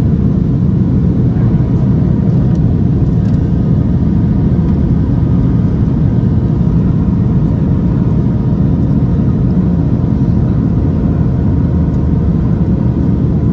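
Steady cabin noise of a Boeing 737-700 climbing out after takeoff: its CFM56-7B engines and the airflow make a constant loud low rumble with faint steady tones above it.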